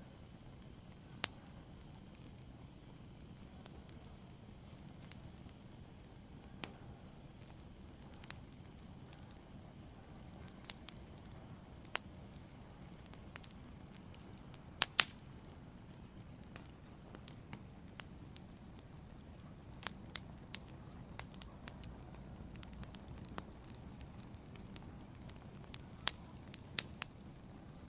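Wood fire burning in a fireplace: a low steady rumble of flame with scattered sharp crackles and pops from the logs, a few louder pops about fifteen seconds in and again near the end.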